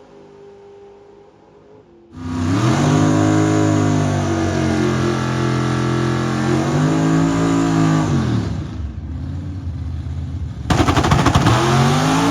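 Drag car engine revving hard: it comes in about two seconds in, holds at high revs for several seconds with a dip and a second rise, then eases off. Near the end a louder, crackling stretch of engine noise starts.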